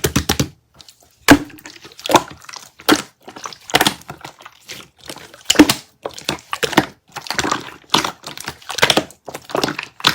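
Frozen kiwi water jelly crunching and crackling in repeated bursts of sharp clicks.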